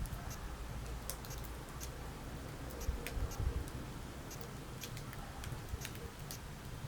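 Wood burning in a fireplace, crackling with irregular sharp snaps and pops over a low, steady rumble of the flames.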